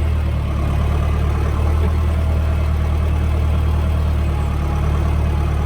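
Renault 7514S tractor's diesel engine running steadily with a deep, even drone while the tractor reverses.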